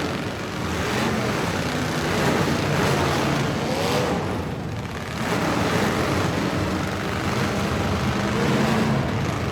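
Truck engines running loudly, their pitch rising and falling as they rev.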